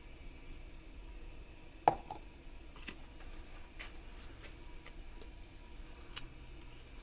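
A single sharp knock about two seconds in, followed by a few light, scattered clicks, over a low steady background hum.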